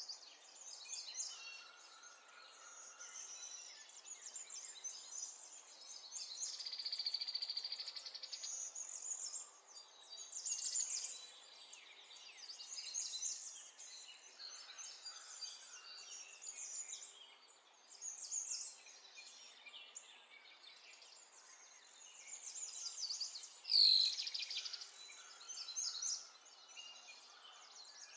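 Birds chirping and twittering in short high calls and trills, with one sharp click about 24 seconds in.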